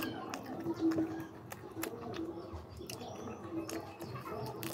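Chewing and mouth clicks of a person eating fish and lettuce by hand, with a low bird call repeating in the background.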